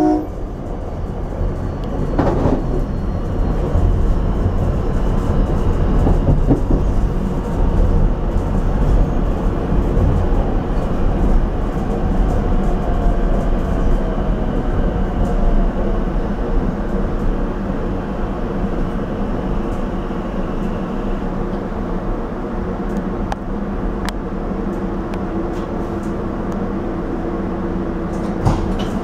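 Rotem Silverliner V electric railcar running along the track, heard from inside the car: a steady low rumble of wheels on rail with a faint motor whine that slowly falls in pitch, and a single sharp clunk about two seconds in.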